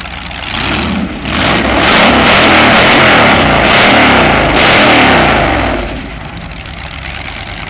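Hot rod engine with open chrome stacks revved hard by hand: it rises from idle about half a second in, is blipped up and down for about five seconds, then drops back to idle.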